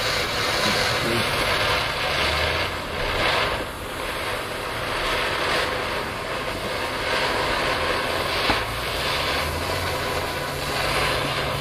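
Garden firework, likely a fountain, burning with a steady hissing rush of sparks, swelling slightly a few times.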